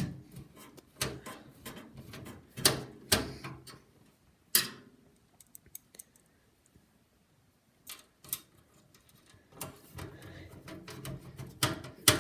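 Screwdriver and screws clicking and clinking against a metal PC case as a motherboard is screwed back in: irregular sharp clicks and knocks, with a quiet pause in the middle.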